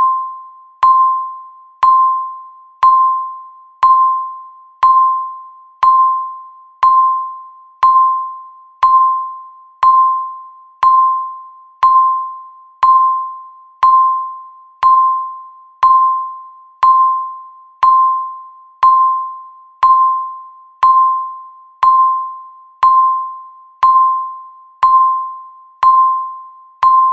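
Countdown timer beeping once a second: each beep is a single clear tone that starts sharply and fades quickly, marking the passing seconds of the final stretch of the countdown.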